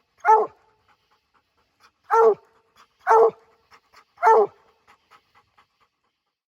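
Treeing Walker coonhound barking treed at a raccoon up a tree: four loud, short barks about a second apart.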